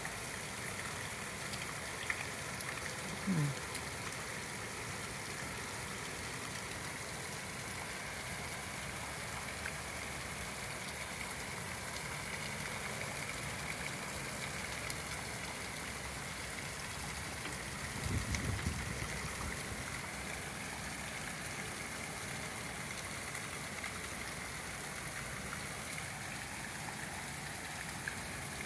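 Heavy rain falling steadily in a continuous hiss. About two-thirds of the way through there is a short low rumble.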